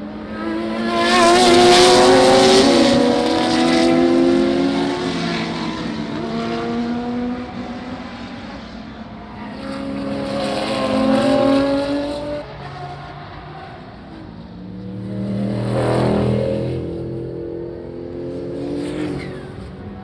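Historic racing cars passing at speed one after another, their engine notes rising and falling as each goes by. There are four pass-bys, the loudest a couple of seconds in and a smaller one near the end.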